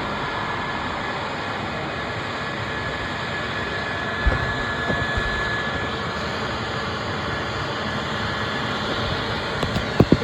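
Roadside mower's rear-mounted blower fan and engine running steadily, with a faint high whine over a steady rushing noise as it blows mown leaves and debris off the road.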